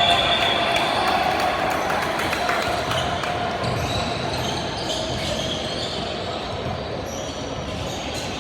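Basketball game sounds in a gym: a ball bouncing on the hardwood court, with scattered knocks and short squeaks over a steady murmur of crowd voices in the hall.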